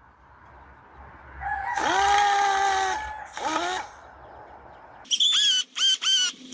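Bird calls: a long pitched call with a dip at its start, a short second call, then from about five seconds a quick run of short, high chirps.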